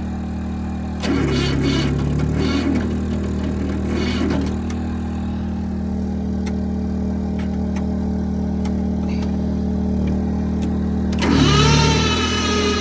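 Starter motor cranking a cold Jinma Farm Pro diesel tractor engine that does not catch, while a portable generator runs steadily under the load of a battery charger on boost. A rougher stretch of cranking comes about a second in, and a louder whining burst comes near the end.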